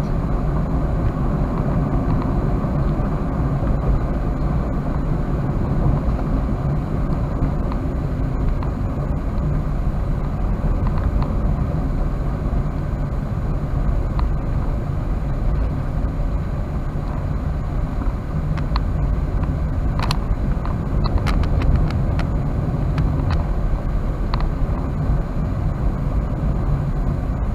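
Steady road and engine noise heard from inside a moving Toyota Wigo, with a few light clicks and ticks in the last third.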